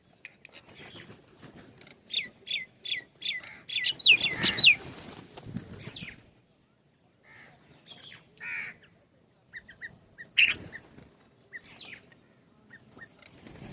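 Small birds calling: a run of about six quick falling chirps a couple of seconds in, with a rustle of wings, then scattered short chirps.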